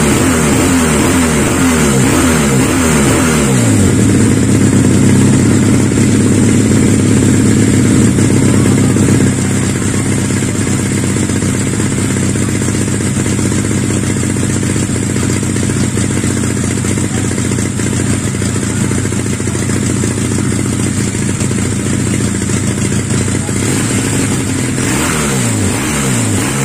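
Custom two-cylinder conversion of a Honda Supra motorcycle engine being revved. It blips several times, falling back after each, then holds a steady higher speed for a few seconds. It drops at about nine seconds to a lower steady run, and near the end there are a few more blips.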